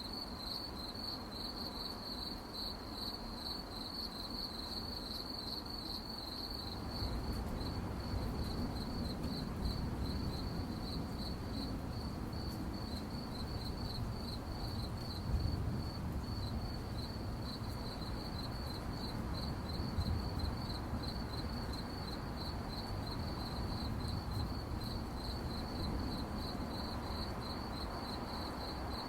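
Crickets chirping in a steady stream of rapid, high-pitched pulses. Underneath is a low background rumble that grows louder about a quarter of the way in.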